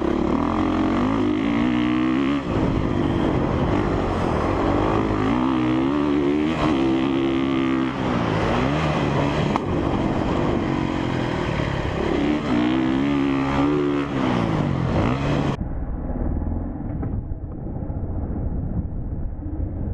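2017 Honda CRF450R's single-cylinder four-stroke engine being ridden hard, revving up and falling back again and again as the throttle is worked. About three-quarters of the way through, the sound turns duller as its high end drops away.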